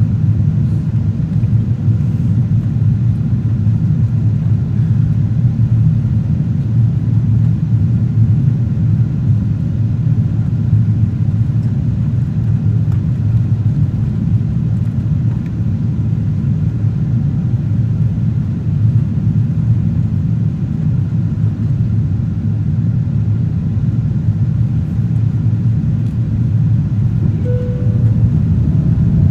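Steady low rumble of a Boeing 777-200ER's engines and airflow heard inside the economy cabin.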